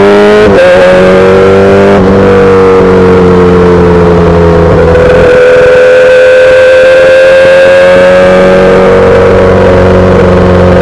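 2008 Yamaha R6's inline-four running through a full SC-Project exhaust under way. The revs drop sharply at about half a second and again at about two seconds in, then the engine holds a fairly steady pitch, creeping slowly upward while cruising.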